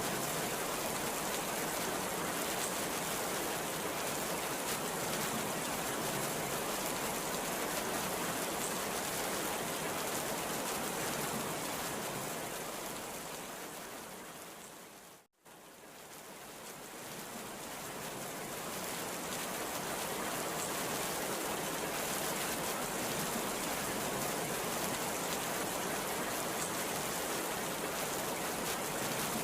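Heavy rain pouring steadily. About halfway through it fades out to a moment of silence and fades back in over a few seconds.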